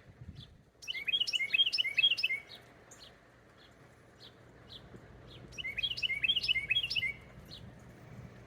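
A small songbird singing two rapid, jumbled songs of quick sliding notes, each about a second and a half long, one near the start and one past the middle. Single chirps are scattered between them.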